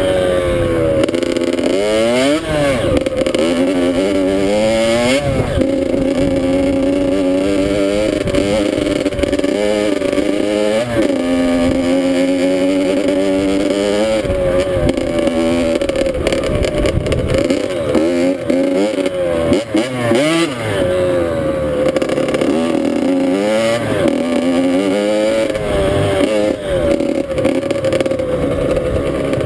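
Dirt bike engine under way, revving up and dropping back repeatedly as the rider accelerates and changes gear.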